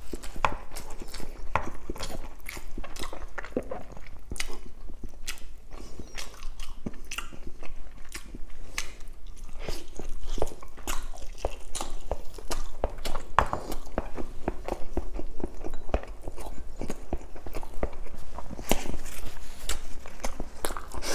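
Close-miked eating of roast chicken: biting into the meat and skin and chewing with the mouth, a steady run of short, wet mouth clicks throughout.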